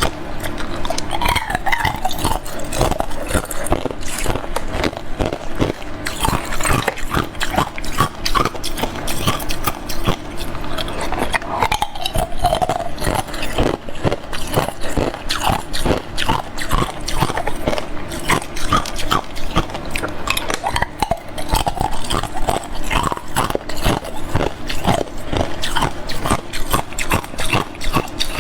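Close-miked chewing of hard clear ice cubes: a continuous run of loud crunches and sharp cracks as the ice is bitten and broken between the teeth.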